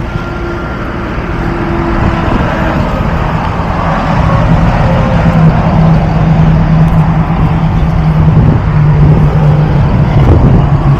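Motor vehicle engine running with road noise. It gets louder over the first few seconds, then holds a steady low hum.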